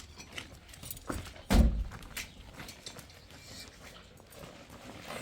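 Scattered clicks and knocks of objects being handled, with one heavy thump about a second and a half in.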